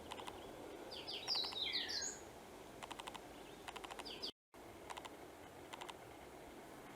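Wild birds calling: a quick cluster of high chirps about one to two seconds in, one note gliding downward, and short dry rattling calls repeating about once a second, over a faint outdoor hiss. The sound drops out briefly a little over four seconds in.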